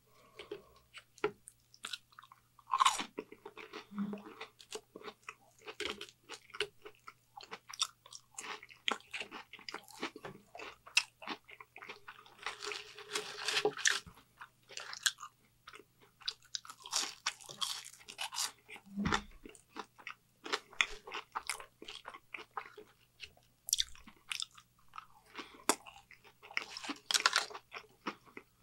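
Close-miked crunching and chewing of french fries, eaten by hand in irregular mouthfuls with short pauses between them.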